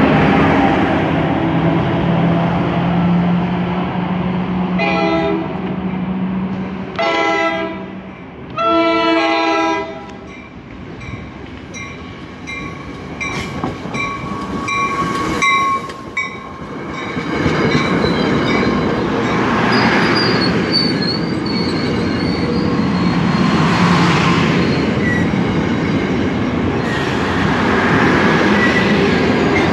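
NJ Transit commuter train at a station platform. A locomotive engine hums steadily, then the horn sounds several times about five to ten seconds in, the last two blasts the longest and loudest. After that come squealing wheels and brakes and the louder rolling noise of the cars passing close by.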